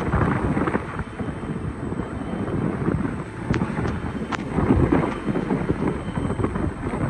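Hurricane-force wind buffeting the microphone: a gusting low rumble that swells and eases, strongest about five seconds in, with a few sharp clicks.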